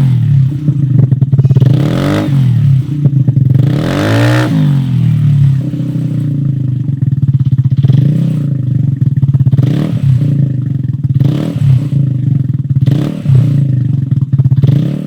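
Vespa LX 150 2V single-cylinder four-stroke engine breathing through a Shijiro M45 aftermarket exhaust, idling loudly with several quick throttle blips that make the pitch rise and fall.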